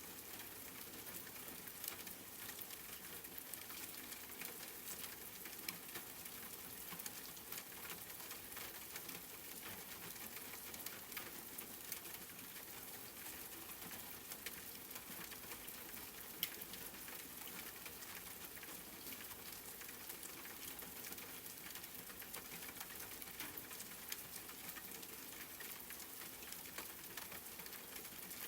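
Steady rain, an even hiss with many small drop ticks scattered through it and no change in intensity.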